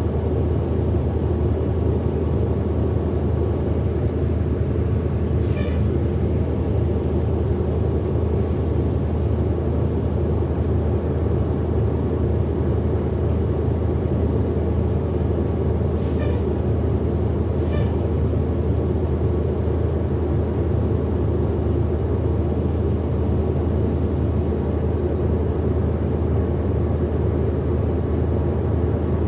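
Steady drone of a 2008 Orion VII NG hybrid-electric bus heard from inside the cabin while riding: drivetrain and road noise, mostly low. Four brief high-pitched squeaks cut through, two close together and two more later on.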